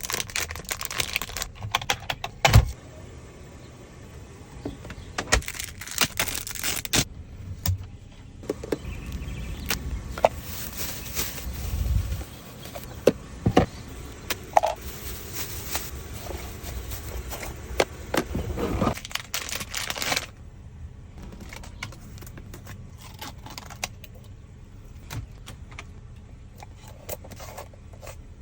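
Handling noises as small car accessories are unpacked and fitted inside a car: repeated clicks, taps, knocks and rustling, with a few louder knocks. The sounds are dense through the first two-thirds and sparser near the end.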